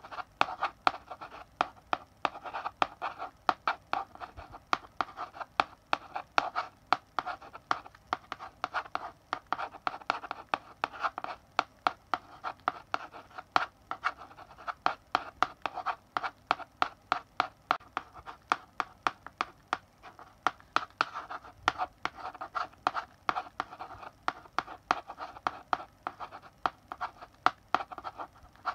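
Chalk writing on a blackboard: a steady run of sharp taps and short scratchy strokes, several a second, as letters are written.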